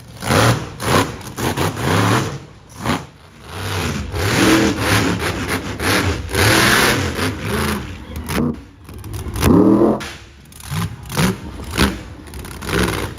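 Monster truck engines revving hard over and over, the pitch climbing and falling with each blip of the throttle, with sudden breaks between bursts.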